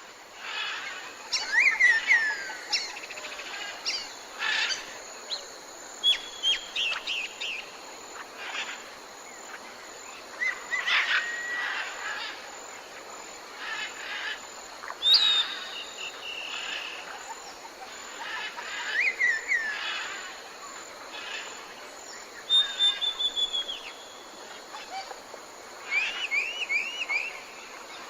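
Many wild birds chirping and calling together: a scatter of short chirps and whistled notes, some sliding down in pitch and some in quick runs of three or four, over a steady outdoor hiss.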